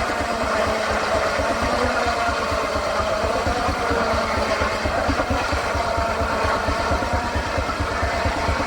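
Sawmill machinery running steadily: a fast, even low pulse under a wavering mid-pitched hum.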